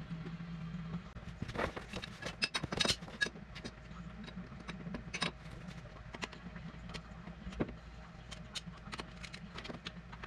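Hand tools clinking and knocking on metal tractor parts in irregular strikes, densest and loudest about two to three seconds in.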